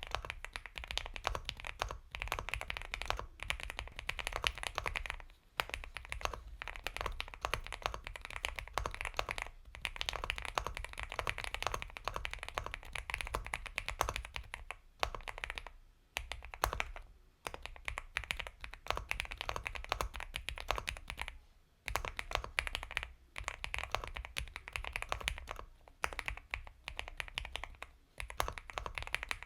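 Steady, fast typing on an Epomaker x Feker Galaxy 80 mechanical keyboard with Gateron Milky Yellow Pro linear switches: a soft, creamy run of keystrokes, broken by a few short pauses.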